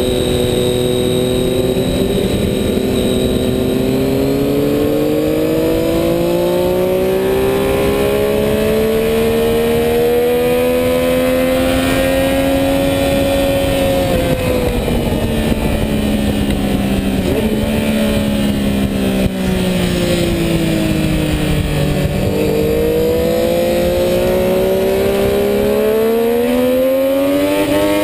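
Sport motorcycle engine heard from on board at track speed under wind noise, its pitch climbing steadily under throttle for about the first half, dropping away for several seconds as the bike slows, then climbing again near the end.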